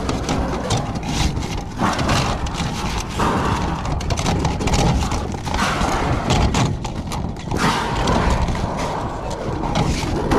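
Irregular knocking and clattering over a steady rushing noise, typical of hands-on installation work with tools and sheet metal.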